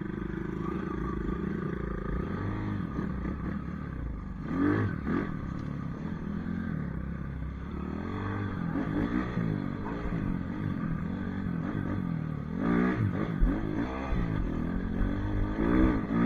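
Small pit bike engine running and being revved up and eased off again and again, its pitch rising and falling, with the strongest surges about four seconds in and near the end.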